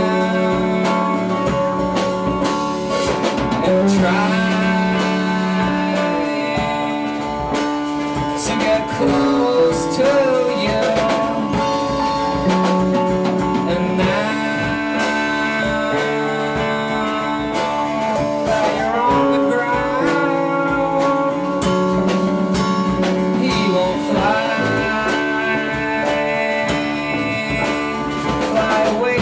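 A live band playing a song, with long held melody notes and several notes that bend in pitch over a steady accompaniment.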